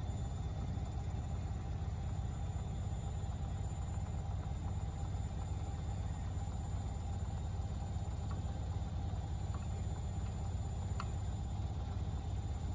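Steady low mechanical hum, with a few faint clicks about two thirds of the way through.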